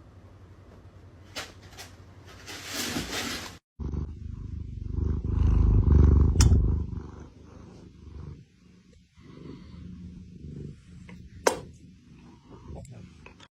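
A cat making a low rumbling sound, loudest a couple of seconds after a sudden cut and fading out after that. A brief noisy stretch comes before the cut.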